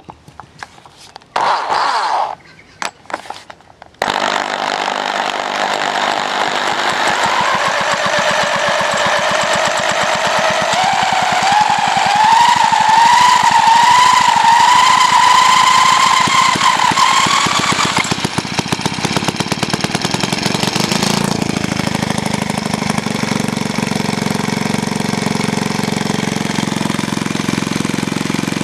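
Villiers Mark 15 overhead-valve engine spun over with a drill in a few short bursts until it catches a few seconds in and keeps running with a fast even beat. Its speed climbs slowly with a rising whine, then drops back and settles to a slower, steady run.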